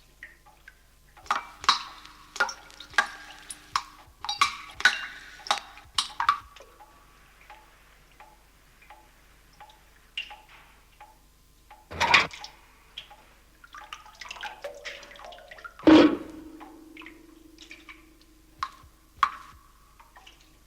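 Rainwater dripping through a leaking roof, irregular plinks and plops of differing pitch over a faint steady ticking. Two louder drip hits stand out, one about twelve seconds in and another about four seconds later.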